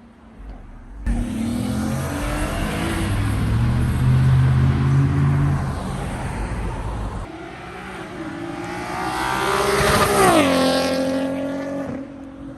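Car engine revving hard as it accelerates away, starting about a second in and climbing in pitch. A second hard pull rises to a peak, then drops sharply in pitch as the car passes close by.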